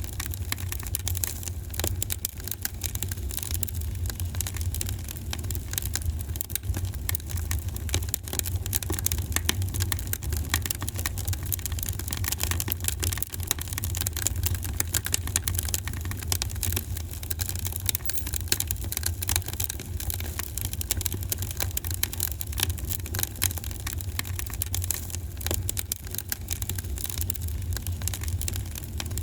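Wood fire in a fireplace crackling and popping constantly, many small irregular snaps over a steady low rumble.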